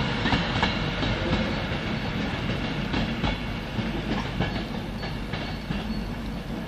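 A train running through the station, its wheels clicking irregularly over the rail joints, with a steady rumble that slowly fades as it moves away.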